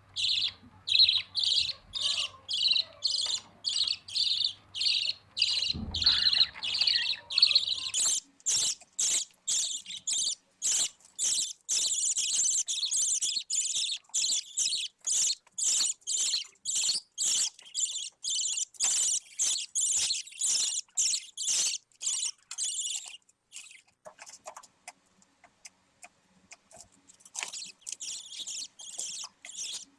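Budgie chick giving short, high, raspy calls over and over, about two a second. The calls fade for a few seconds about three quarters of the way through, then start again.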